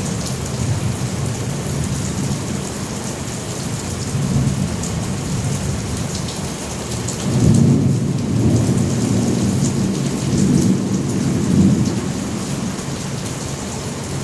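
Heavy rain falling steadily under rolling thunder; a louder rumble of thunder swells about halfway through and rolls on for several seconds before easing.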